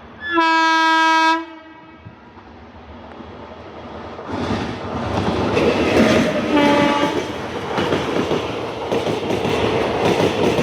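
An Indian Railways locomotive horn sounds one loud blast of about a second. A few seconds later a train draws near and runs past with rumbling, clattering wheels on the rails, and a shorter horn note sounds partway through.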